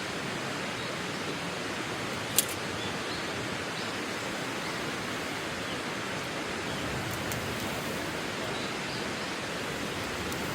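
Steady, even rushing noise, like running water or wind, with a single sharp click about two and a half seconds in.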